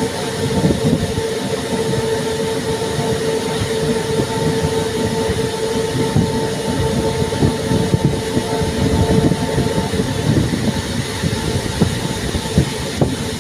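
MEMU electric multiple-unit train running along the line: a steady rumble with rapid wheel clatter. A steady whine runs over it and stops about ten seconds in.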